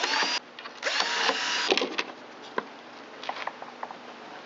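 Power drill/driver spinning up and driving screws into the blower's starter housing: a short run at the start and a longer one about a second in, each rising in pitch as the motor spins up, then a few light clicks and taps.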